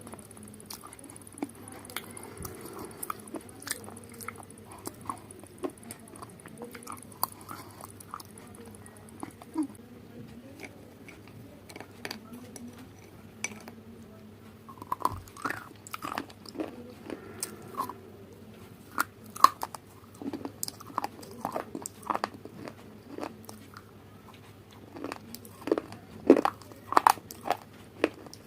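A person eating crunchy food close to the microphone: irregular crisp bites and crunches with chewing in between, coming thickest near the end.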